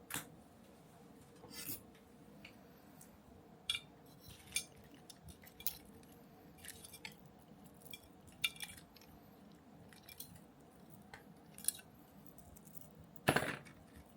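Small hard kit parts and tools being handled on a work surface: scattered irregular clicks, taps and clinks, with one louder rattle about a second before the end.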